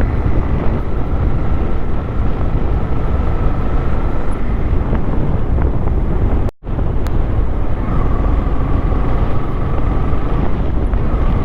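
Motorcycle running steadily at riding speed, its engine mixed with a dense rushing noise. The sound cuts out completely for a moment about six and a half seconds in.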